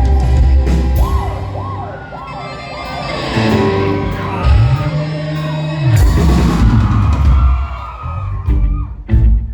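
Alternative rock band playing live in a large hall, with a singer's wailing, sliding vocal whoops over bass, guitar and drums. Near the end the band cuts into short stop-start hits.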